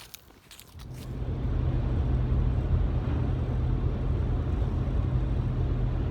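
Truck's engine and road noise: a steady low rumble with a held hum swells up about a second in and stays loud, as of the truck pulling away and driving.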